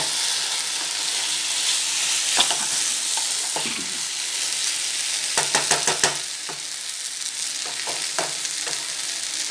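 Masala-coated chicken sizzling steadily as it is dry-fried in a pan, stirred and scraped with a wooden spatula. There is a quick run of spatula knocks against the pan about five to six seconds in.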